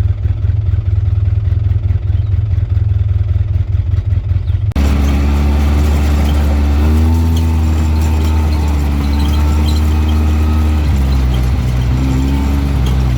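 Side-by-side UTV engine running while driving, a loud steady rumble. About five seconds in the sound changes abruptly to a clearer engine note, which shifts a little in pitch with the throttle.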